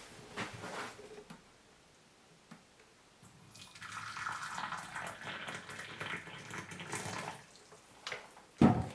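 Hot water being poured into a cup, a steady splashing pour lasting about four seconds, followed near the end by a single loud thump.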